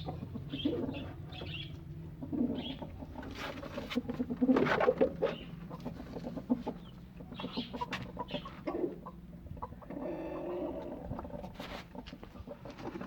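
Domestic chickens clucking and pigeons cooing, in short scattered calls, with occasional small clicks and knocks.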